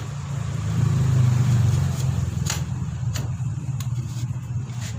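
A steady low engine hum that swells for about a second, like a motor vehicle passing, with several sharp metallic clicks as exhaust parts and tools are handled.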